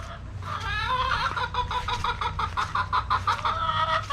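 Chickens clucking in a rapid string of short calls, starting about half a second in.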